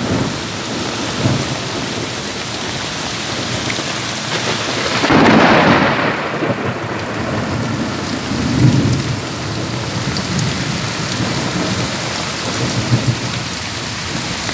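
Heavy rain pouring steadily in a thunderstorm. A rumble of thunder swells up about five seconds in, and a lower, shorter rumble follows about three seconds later.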